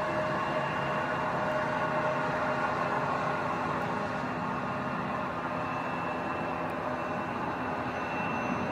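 Jet airliner engines running steadily at taxi power: a constant rushing hiss with a few fixed whining tones over a low rumble.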